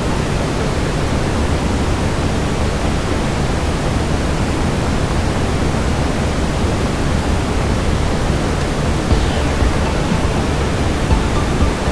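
Steady brown noise, a deep even hiss heaviest in the low end, mixed with a lit fireplace. A few faint crackling pops come in the last few seconds.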